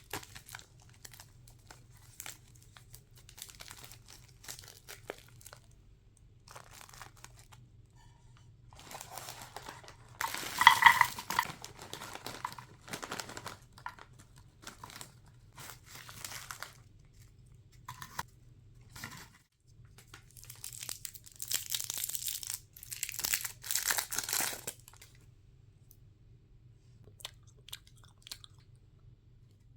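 Snack wrappers crinkling and tearing open by hand, with quieter rustling and tapping between. The loudest tear comes about a third of the way in, and a longer run of crinkling and tearing comes about two thirds in.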